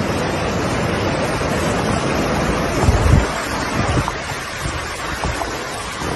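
Storm-driven sea surf crashing and washing, with strong wind buffeting the microphone; a heavier low rumble of wind or breaking water comes about three seconds in.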